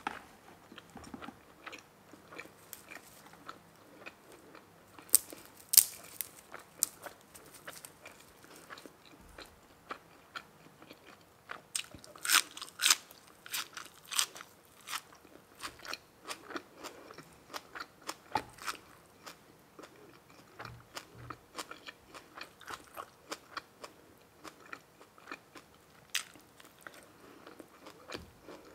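Close-miked mukbang eating: a person biting and chewing food with crisp, wet crunches and smacks, the loudest bursts of crunching coming about five seconds in and again around twelve to fourteen seconds.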